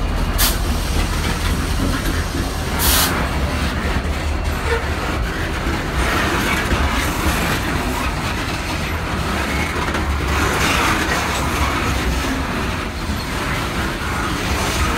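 Loaded coal hopper cars of a freight train rolling past with a steady rumble on the rails. There are two brief sharp noises, just after the start and about three seconds in.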